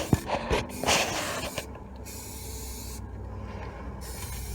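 Aerosol can of high-heat paint spraying a hiss in short bursts, with a few sharp clicks in the first second.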